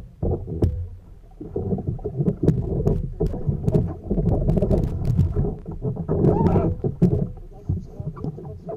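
Water sloshing and splashing around a kayak, with scattered sharp knocks and clicks.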